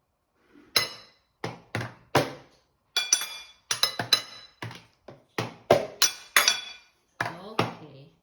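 Glassware and dishes being struck with hard utensils: about twenty sharp clinks in an irregular patter, each with a brief ringing tone.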